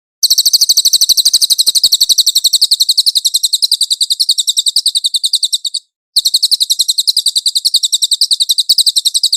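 A cililin songbird singing a fast, high-pitched trill of rapidly repeated notes, about a dozen a second. The trill breaks off briefly about six seconds in, then starts again.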